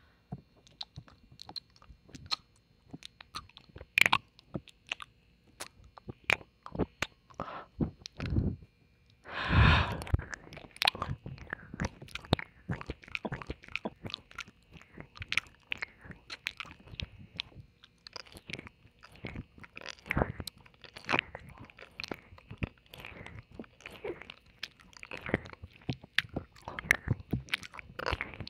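Close-up wet mouth sounds from ear-licking ASMR: a quick, irregular run of tongue clicks, smacks and licks on the left-ear side of the microphone, with one longer, louder rustling noise about nine and a half seconds in.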